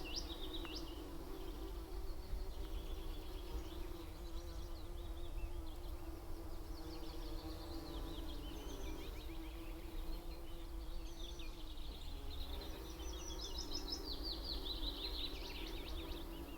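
Bumblebees buzzing around a tree, a steady hum that wavers slightly in pitch, with small birds singing quick high trills several times over it.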